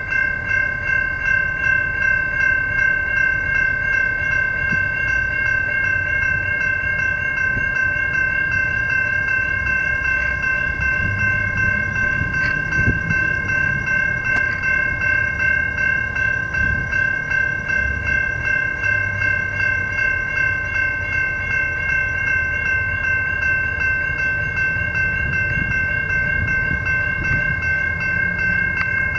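Level crossing bells ringing continuously in rapid strokes, an electronic bell and a Safetran Type 3 bell, while a train passes with a low, shifting rumble from its wheels and running gear.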